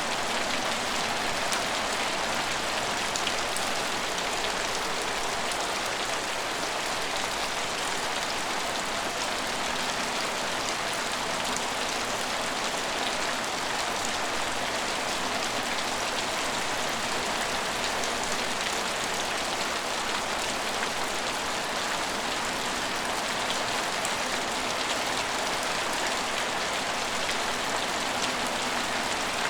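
Steady rain falling and pattering on hard surfaces, an even hiss with fine drop ticks and no change in level.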